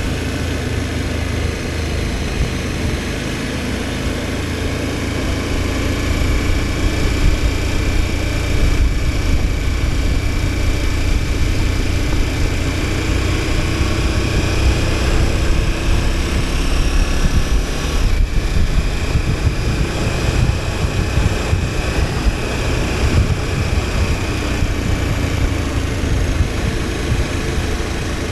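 KTM 1290 Super Adventure S's V-twin engine running on the move, its pitch rising and falling gently as the throttle changes. A steady rush of noise runs underneath it.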